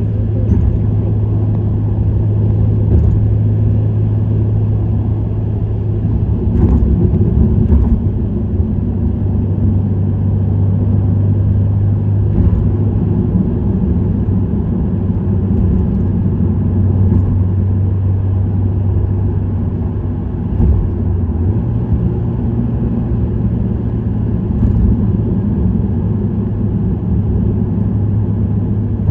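Subaru WRX STI's turbocharged flat-four engine and STI Performance muffler cruising at steady speed: a low, steady exhaust drone over road noise. The drone's pitch steps up slightly about twenty-one seconds in.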